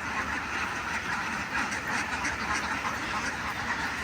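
A large flock of farm ducks quacking together, a dense continuous chorus of overlapping calls.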